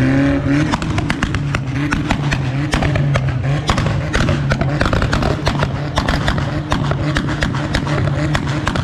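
Modified car's engine running with a steady low note under a rapid, irregular string of sharp exhaust pops and crackles.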